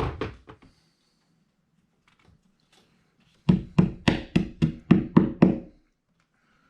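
Hammer tapping a molly wall anchor into a hole in drywall: a few taps at the start, then a run of about eight quick, even strikes.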